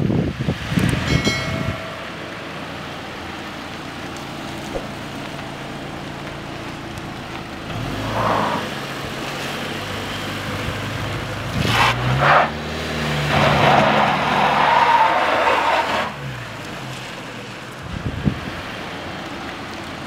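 Vehicle engine running steadily, growing louder and rising then falling in pitch for a few seconds past the middle. Wind buffets the microphone at the start.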